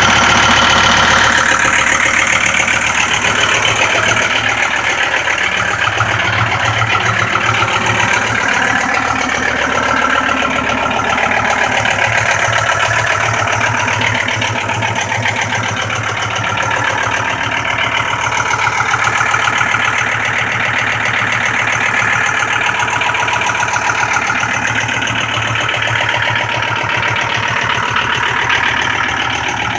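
John Deere 5325 tractor's diesel engine running steadily at a constant speed.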